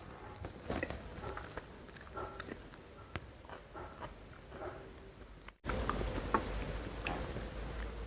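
Close-miked chewing and biting: irregular small crunches and wet mouth clicks. About two-thirds through the sound drops out for a moment, then comes back with a louder low hum underneath.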